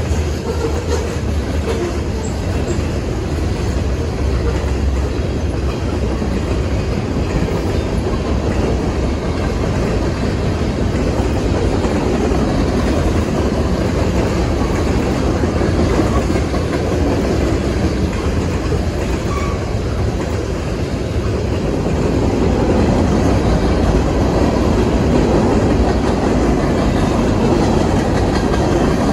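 Freight train of covered hopper cars and tank cars rolling past: a steady rumble of steel wheels on rail, growing a little louder about three quarters of the way in.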